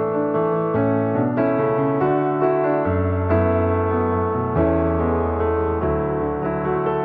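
Background music: a gentle piano piece, notes and chords changing about every half second over held bass notes.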